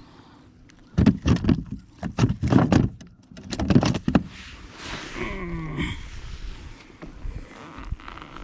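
Knocks and clatter of gear being handled in a kayak, a quick series over about three seconds. This is followed by a short squeak with a wavering pitch.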